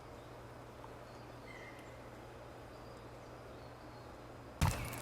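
Faint outdoor background with a brief, faint whistled call from a red kite about a second and a half in. Near the end comes a sudden loud rustle and thump.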